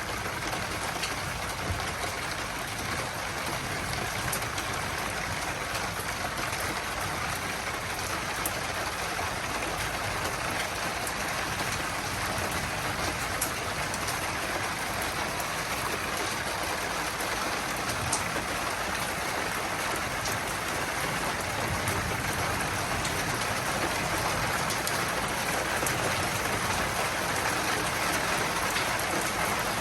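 Steady heavy rain of a thunderstorm, with scattered drops ticking, growing a little louder near the end.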